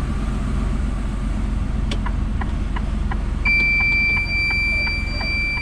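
Lorry's diesel engine idling heard from inside the cab, with regular light ticking. About three and a half seconds in, a steady high-pitched electronic warning tone starts and holds.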